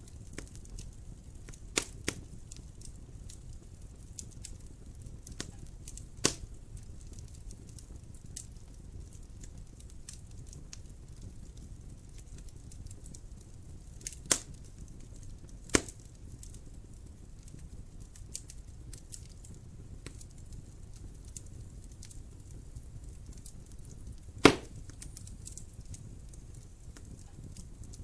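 Wood fire crackling in a fireplace: a low steady rumble with scattered small crackles and a handful of sharp pops, the loudest near the end.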